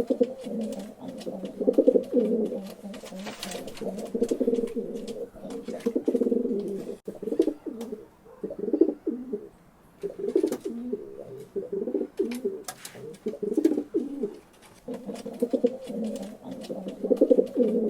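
Pigeons cooing: repeated low throaty coo phrases with short pauses between them, with scattered light clicks.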